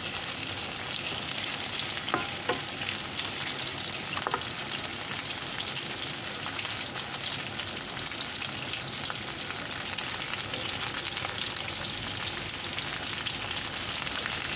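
Chicken, potato and chillies sizzling in oil in a frying pan, a steady hiss, with a few light knocks of a wooden spatula against the pan in the first few seconds.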